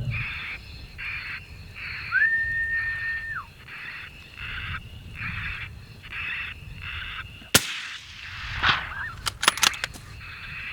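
Electronic predator call playing a repeating animal call, a short burst a little under twice a second, with one held whistle-like note about two seconds in. A single sharp crack about seven and a half seconds in, then a quick run of clicks two seconds later.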